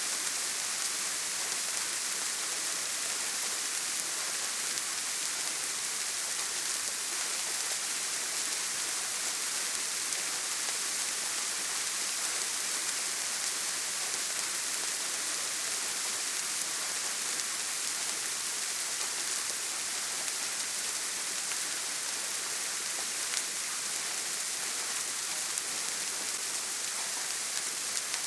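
Steady rain on a tin roof: an even hiss with a few sharper drop ticks scattered through it.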